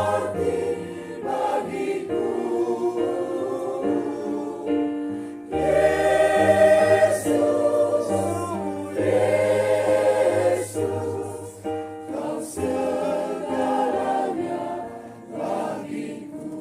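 Church choir singing a hymn in several parts, in long held chords that change every second or so. The singing dies away near the end.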